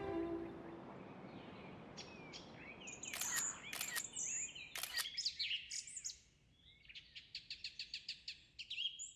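Small songbirds chirping and whistling, with short sharp calls, then a rapid trill of even notes, about six a second, near the end.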